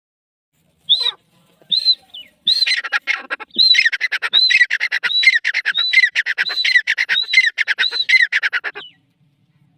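Grey francoline calling: a few single notes, then a loud, rhythmic run of repeated harsh, rasping phrases, about three every two seconds, which stops near the end.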